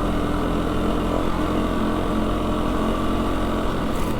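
A four-wheel-drive's engine running steadily under way, with a constant low rumble from the drivetrain and the sandy track.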